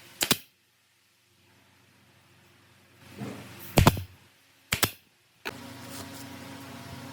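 A few sharp knocks, two of them close together in the middle, then a steady machine hum that starts abruptly and runs on.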